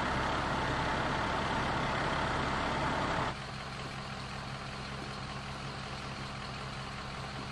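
Heavy truck engine idling steadily, a low hum with a broad rushing noise over it that cuts off abruptly about three seconds in, leaving the engine hum alone.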